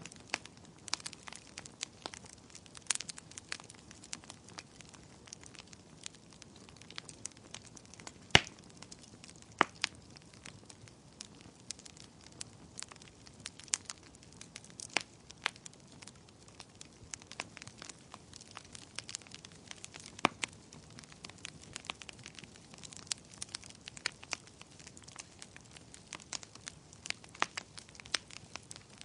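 Wood fire crackling: irregular sharp pops and snaps over a faint hiss, with a louder pop about eight seconds in.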